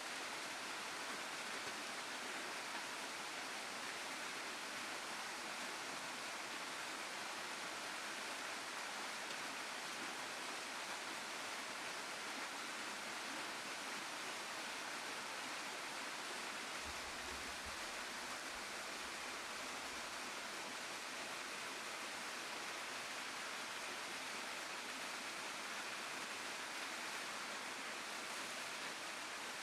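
Waterfall and stream water rushing with a steady, even noise.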